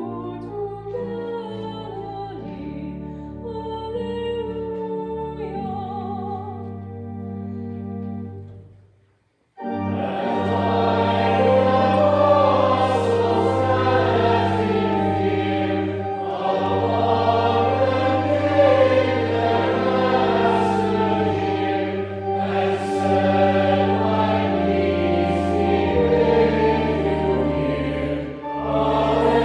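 Church organ playing alone with sustained chords over a bass line, breaking off into a short silence about nine seconds in. Then a congregation sings a hymn verse with the organ accompanying.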